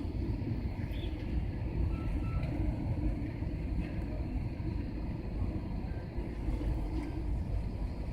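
Steady low rumble of an airliner's cabin noise as it descends on approach for landing: engines and rushing air.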